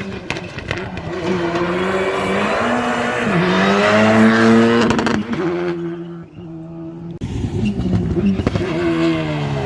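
Rally car engine revving hard through a stage section, pitch climbing and falling with the gear changes, with a few sharp pops in the first second. About six seconds in the throttle lifts and the note drops briefly before the engine pulls hard again.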